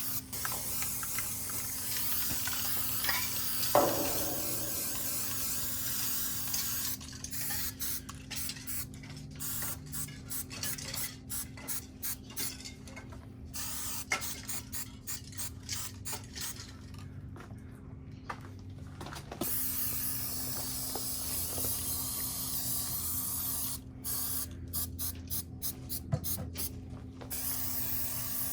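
Aerosol spray paint can hissing, with long continuous sprays alternating with stretches of rapid short bursts. A brief, loud falling squeak sounds about four seconds in.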